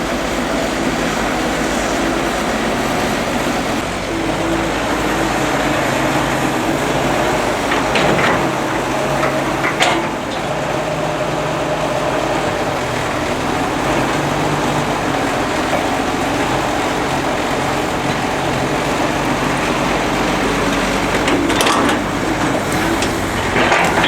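Excavator's diesel engine running steadily, with a few sharp metallic clanks.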